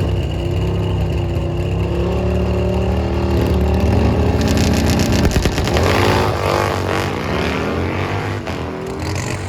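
Drag-racing engines running steadily at first, then from about halfway in revving hard, their pitch rising and falling repeatedly as they run down the strip.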